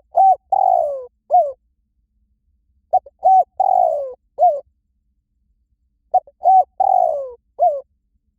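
Spotted dove cooing: three phrases about three seconds apart. Each phrase is a couple of short coos, then a longer coo that falls in pitch, then one last short coo.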